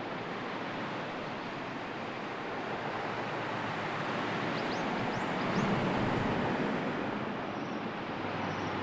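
Steady rush of sea surf and wind, swelling about five to six seconds in.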